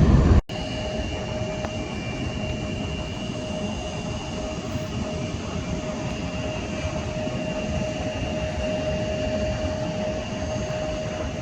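Loud jet airliner noise cut off abruptly about half a second in, followed by a steady rumble with a thin, steady whine, typical of distant jet engines.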